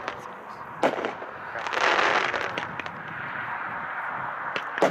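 Consumer 1.4G fireworks cake firing: a sharp bang about a second in and another near the end, with a spell of hissing noise in between.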